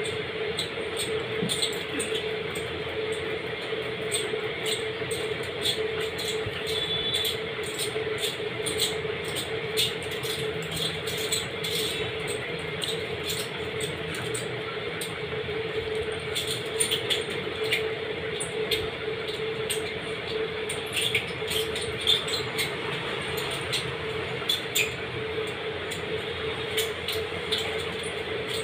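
Close-up eating sounds: chewing and lip smacks, heard as many small irregular clicks over a steady hum.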